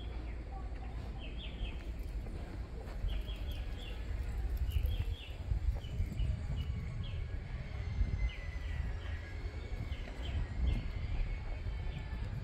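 Small birds chirping in quick clusters of three or four short notes, repeated over and over, against a steady low rumble.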